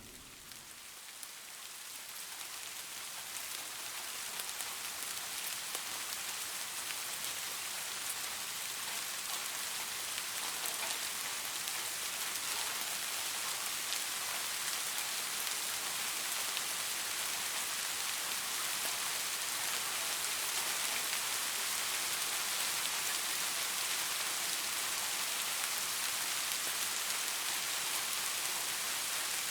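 Rain falling steadily on a surface, a dense even hiss of fine drops. It swells up over the first few seconds as the rain starts, then holds steady.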